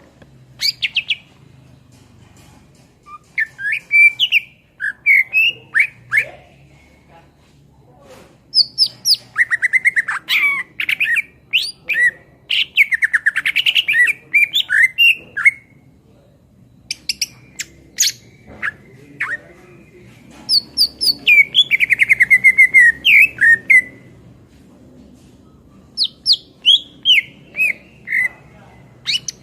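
Green leafbird (cucak ijo) singing loudly in full voice: bursts of rapid chirps, trills and sweeping whistled notes in phrases of one to four seconds, with short pauses between them. A faint steady low hum lies underneath.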